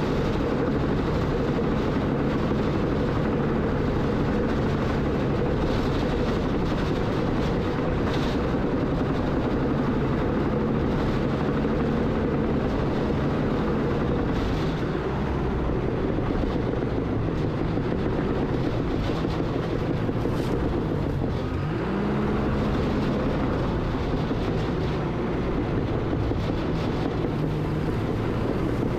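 Heavy earthmoving machine's diesel engine running steadily under work, with a brief dip and shift in pitch about 22 seconds in.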